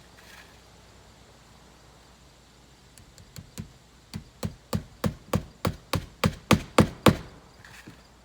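Hand hammer driving nails while shingling. It starts with light taps, then lands a steady run of about a dozen harder blows, roughly three a second and getting louder, and stops about seven seconds in.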